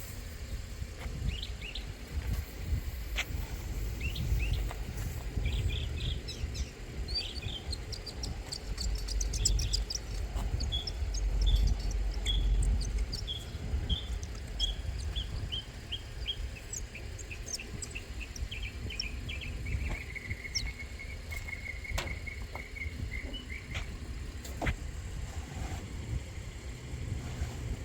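A bird singing: a long series of short repeated chirping notes that step down in pitch, turning into quick repeated notes in the second half, over a steady low rumble. A few sharp clicks are heard along the way.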